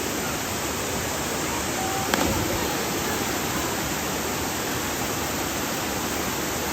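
Waterfall rushing: a steady, even wash of falling water, with a brief thump about two seconds in.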